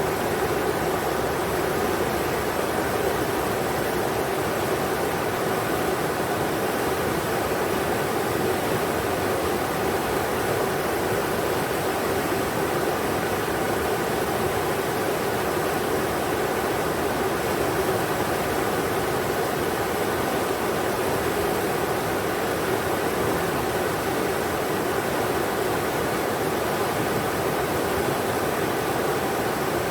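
Englishman River flowing: a steady, even rush of water with no breaks or separate events.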